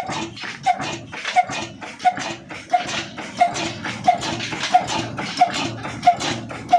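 Old Ruston Hornsby single-cylinder diesel engine running at slow speed, with a sharp, regular knock about one and a half times a second over a steady mechanical clatter.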